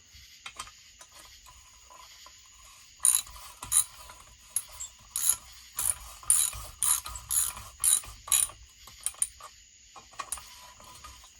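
Hand ratchet clicking as it turns a bolt, worked by hand so the threads don't strip. A few scattered clicks at first, then a run of sharp clicks about two a second from roughly three seconds in, easing off near the end.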